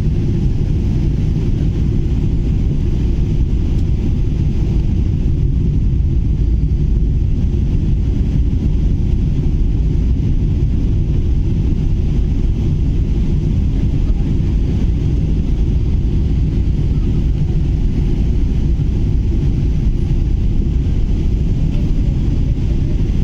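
Airliner noise: a steady, unchanging low rumble of jet engines and rushing air.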